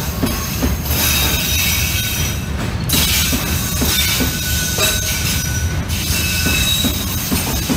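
Container freight train's flatcars rolling past close by: a steady heavy rumble of wheels on rail, with thin high-pitched wheel squeal on the rails and scattered short knocks.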